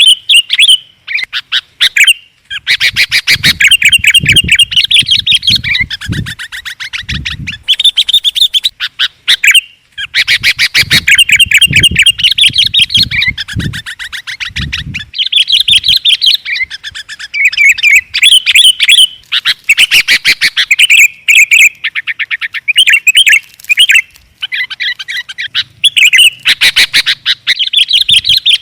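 Noisy, excited chattering of sooty-headed bulbuls (kutilang) and yellow-vented bulbuls (trucukan) played as a bird lure: rapid, loud chirps and trills, with two long dense bursts about three and eleven seconds in that have a low rumble under them.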